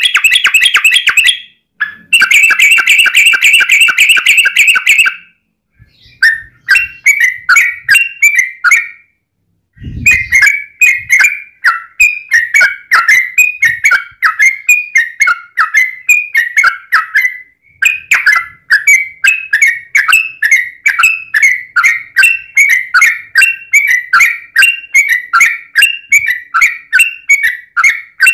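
Yellow-vented bulbul (trucuk) singing its long, fast 'ropel' song: rapid runs of short, bubbling notes repeated several times a second, broken by a few brief pauses.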